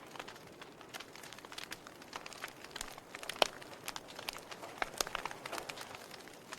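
Wood fire in a fireplace crackling: irregular sharp pops and snaps over a soft hiss, with one louder pop about halfway through.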